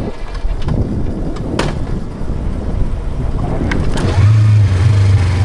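Yamaha R25's parallel-twin engine catching on a bump start about four seconds in and then running steadily, after rolling tyre and wind noise with a couple of sharp clunks.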